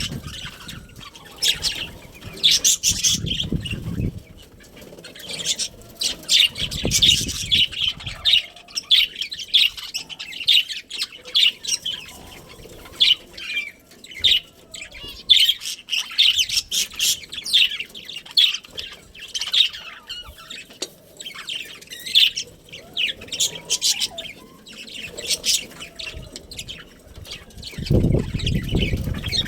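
A colony of budgerigars chirping and chattering continuously in rapid, overlapping high chirps. There are a few low bursts near the start, about seven seconds in and near the end.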